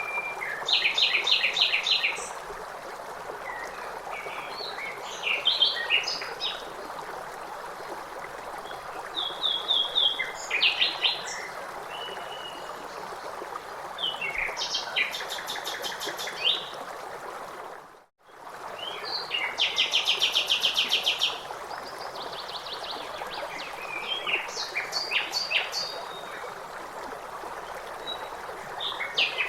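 Songbirds singing short, rapid trilled phrases every couple of seconds over the steady rush of a stream. The sound drops out briefly just past the middle, then the birds and water resume.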